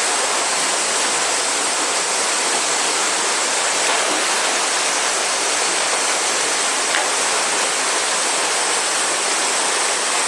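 Steady rush of river water, with a chorus of cicadas droning over it.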